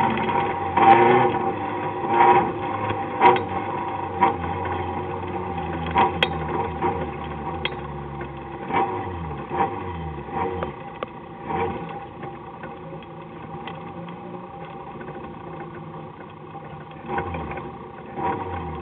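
Citroën AX autocross car heard from inside the cabin, its engine running at low revs with the pitch rising and falling gently, against frequent short knocks and rattles from the car over rough dirt. The sound gradually gets quieter, after hard revving just before.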